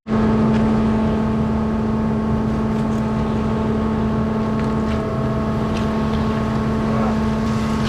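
Concrete mixer truck's diesel engine running steadily, a constant even-pitched drone.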